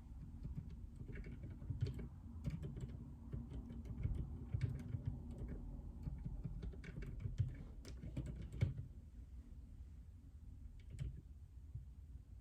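Typing on a JJK84 mechanical keyboard with Outemu Silent Peach silent linear switches: a quick run of keystrokes that stops about two-thirds of the way through, then one more keystroke near the end.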